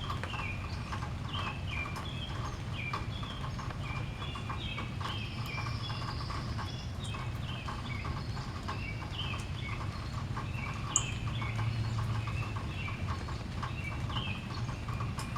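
Small birds chirping over and over in short falling notes, with a quick run of light ticks beneath and a steady low hum. One brief sharp high note stands out about two-thirds of the way through.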